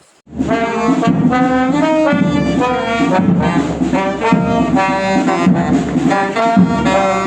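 Loud brass-led music, with horns such as trombone and trumpet, starting abruptly about a third of a second in.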